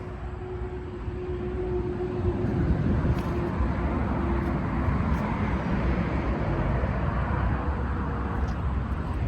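Steady rumble of road traffic outdoors, growing louder about two seconds in and then holding, with a faint steady hum in the first few seconds that fades away.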